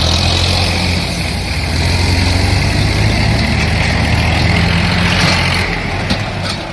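Tractor diesel engine running steadily with a loud low hum, easing off shortly before the end, with a few sharp clicks after it.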